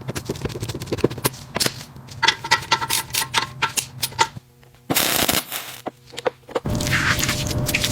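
Workshop tool work: quick runs of sharp clicks and knocks, a short burst of noise about five seconds in, then a steady rushing noise near the end.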